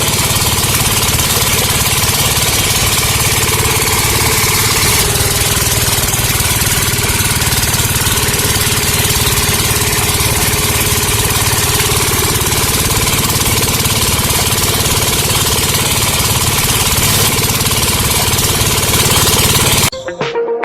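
Engine idling steadily with a fast, even chugging. It cuts off abruptly near the end, and electronic music takes over.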